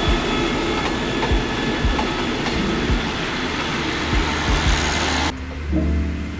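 Train running on the rails: a steady rushing rumble with irregular low knocks from the wheels. About five seconds in it cuts off abruptly to a quieter low rumble.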